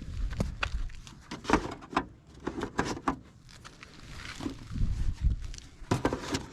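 Plastic fluid bottles being handled and set down into a small storage compartment: irregular knocks, clunks and light rattles.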